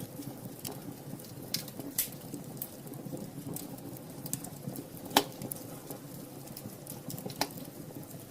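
Wood fire crackling in a fireplace: a steady low rumble of flames with scattered sharp pops, the loudest about five seconds in.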